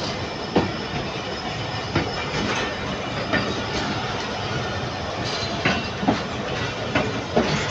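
Pakistan Railways passenger coaches rolling past close by as the train pulls out of the station: a steady rumble of wheels on rail, with sharp clacks every second or so as the wheels cross the rail joints.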